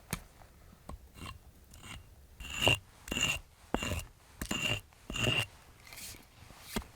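Hand saw cutting wood in a run of rasping strokes about two a second, the blade ringing on each stroke, loudest in the middle of the run.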